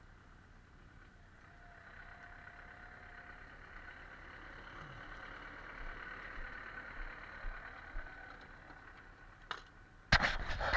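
A distant engine running steadily, growing louder and then fading away. Near the end a sudden loud, rough noise breaks in.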